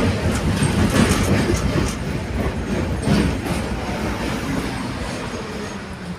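Ust-Katav 71-631 tram car rolling along the rails, heard from on board, with knocks as the wheels cross rail joints and some wheel squeal. The running sound grows gradually quieter.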